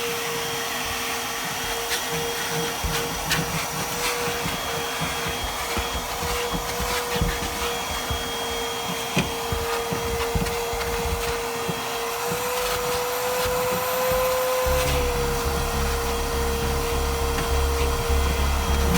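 Ridgid shop vacuum running with a steady whine, its nozzle knocking and rattling as it picks up embedded dirt and debris from the truck's interior. Background music comes in near the end.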